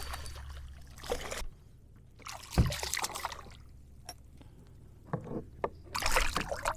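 Water splashing and sloshing around a kayak, with a single low knock against the hull about two and a half seconds in.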